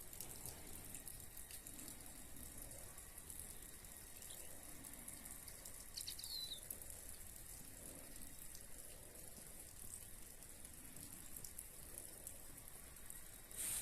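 Faint steady outdoor hiss, with one brief high chirp from a small bird about six seconds in.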